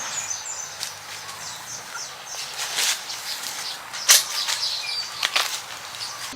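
Dry-mixed cement being tipped out of a wheelbarrow, heard as a few noisy rushes, the loudest about four seconds in, while birds chirp in short high notes.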